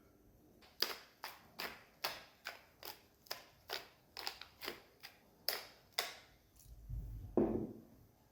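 About a dozen sharp knocks, roughly two or three a second, each with a short ring, then a single dull low thud near the end.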